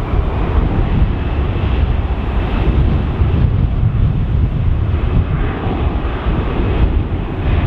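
Airbus A320's CFM56 jet engines at takeoff thrust: a steady loud rumble with a faint high whine above it.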